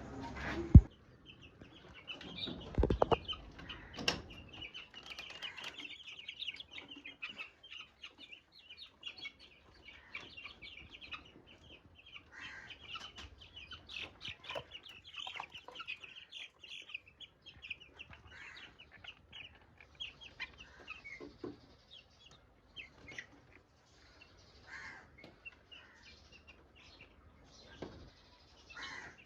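A brood of young chicks peeping, many short high-pitched calls overlapping, thinning out in the later part. A few sharp knocks sound in the first few seconds.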